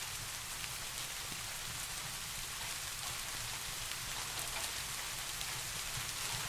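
Steady rain: an even hiss of falling rain with scattered drop ticks, over a low steady rumble.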